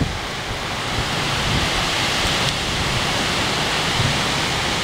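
Heavy rain and strong wind: a steady rushing hiss, with the wind rumbling on the microphone underneath.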